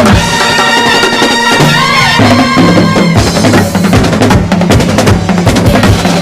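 A festival band set playing: wind instruments holding a melody line over steady bass and snare drumming.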